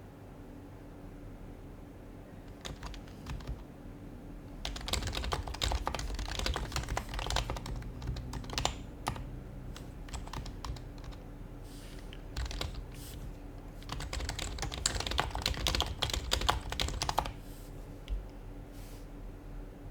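Typing on an HHKB Professional HYBRID Type-S keyboard, its silenced Topre capacitive keys clicking softly. Two fast runs of keystrokes, one about a third of the way in and one about three quarters through, with a few scattered keystrokes before and between them.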